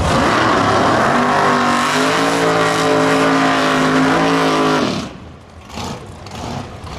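Drag-racing muscle car engine at full throttle, its note rising for the first couple of seconds and then holding high. About five seconds in the sound drops away abruptly.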